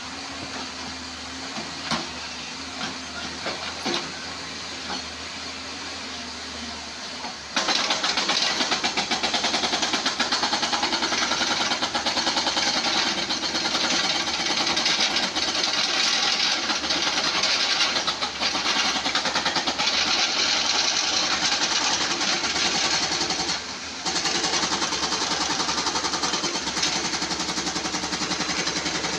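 Excavator engine running, then about a quarter of the way in a hydraulic rock breaker starts hammering rapidly on stone. It stops for a moment about two-thirds of the way through and starts again.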